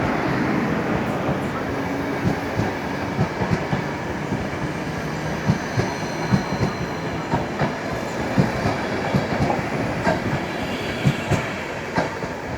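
Train running along the track: a steady rumble with frequent short knocks of the wheels clattering over rail joints and points.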